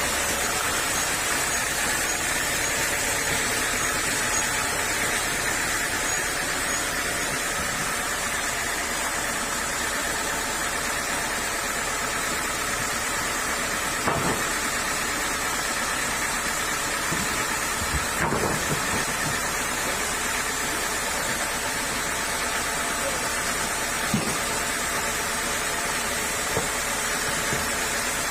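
Sawmill saw machine running steadily, a constant hum and whir, with a few short knocks in the second half.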